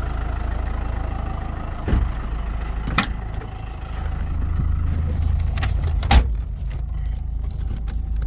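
A motor vehicle's engine runs steadily with a low rumble, and three sharp knocks come about two, three and six seconds in, the last the loudest.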